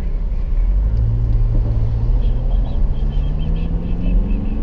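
Car engine and road rumble while driving, the engine note rising steadily as the car accelerates. A run of short high chirps sounds briefly in the middle.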